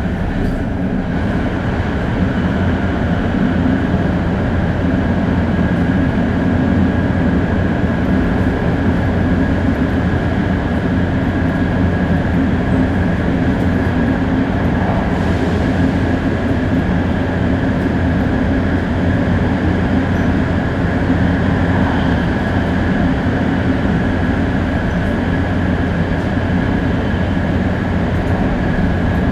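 500 series Shinkansen running at a steady pace, heard from inside the car: a dense rumble of wheels and running gear with a steady high whine from its Toshiba GTO-VVVF traction equipment.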